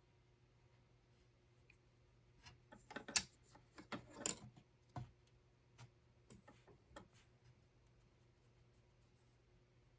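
Light clicks and rustling of small objects being handled, an irregular cluster of them in the middle, over a faint steady hum.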